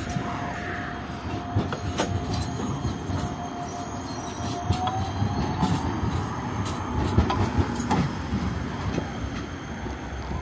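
Electric street tram running past, with a steady whine that rises slightly in pitch about halfway through, over a low rumble and scattered clicks and knocks.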